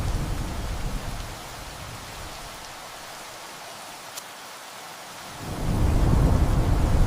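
Thunder rumbling over steady rain. A deep rumble fades away in the first second or so, leaving only the rain hiss, then a new rumble swells up about five and a half seconds in.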